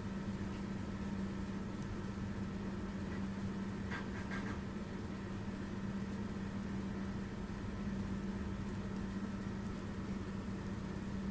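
A steady low electrical-sounding hum, with a few faint clicks about four seconds in.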